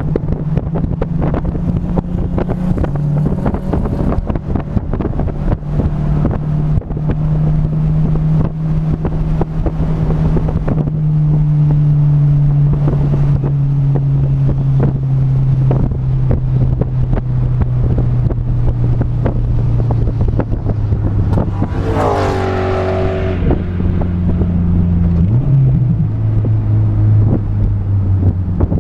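Car engine running at low, steady revs, its pitch slowly easing down as the car slows, with wind buffeting the microphone. About 22 seconds in a brief sweep of tones falls away, and a short rev blip follows a few seconds later.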